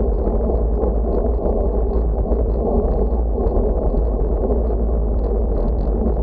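Wind rushing over the microphone of a moving bicycle, with a steady low rumble from the road.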